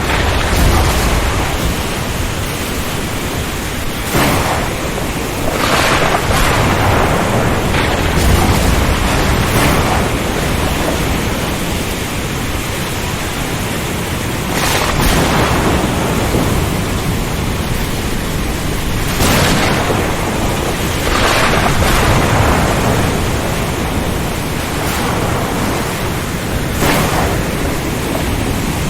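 Storm ambience: a steady rush of rain and wind that swells in surges every few seconds, with low rumbles of thunder.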